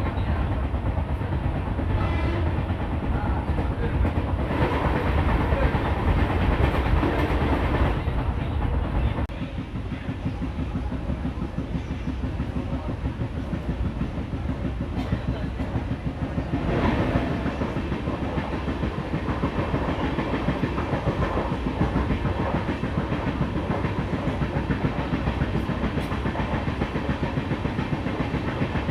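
Passenger train running at speed, heard from on board: a steady rumble with wheels clattering over the rail joints. The noise drops a step about nine seconds in and swells briefly near seventeen seconds.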